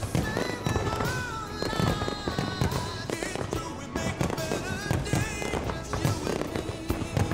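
Fireworks bursting in a rapid, irregular series of bangs over loud background music with a sung or played melody.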